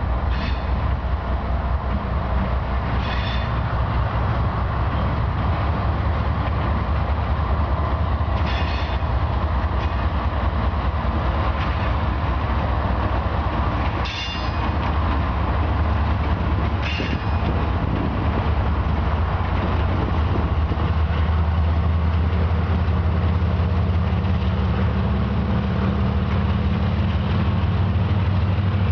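Freight train passing behind two GE diesel locomotives, a C40-8 and an ES44AC. The engines give a steady low drone that grows stronger about two-thirds of the way in, while the cars rattle over the rails with a few short metallic clanks.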